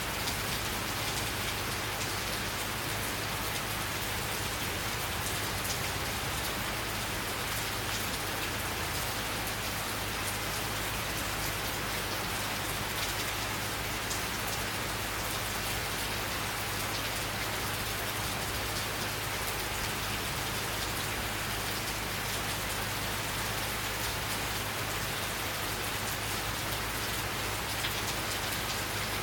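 Steady summer rain falling, a constant wash of noise with many fine drop ticks on surfaces.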